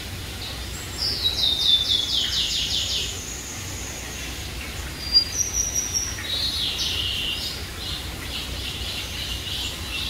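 Small birds singing and calling: a quick, falling trill of about ten high notes about a second in, then short high calls and another falling run of notes around the middle, with fainter repeated chirps later.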